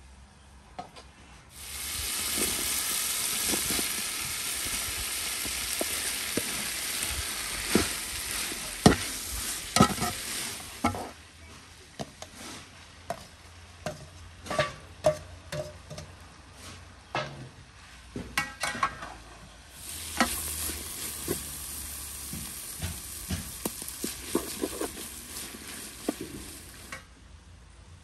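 Pieces of lamb liver frying in hot fat in a pot, a loud sizzle that starts suddenly about two seconds in. In the middle the sizzle drops, and a metal spoon clinks and scrapes against the bowl and pot many times. Near the end the loud sizzle rises again.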